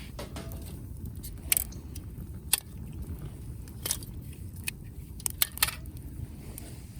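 Burning firewood crackling, with scattered sharp pops and a quick run of three about five and a half seconds in, over a steady low rumble.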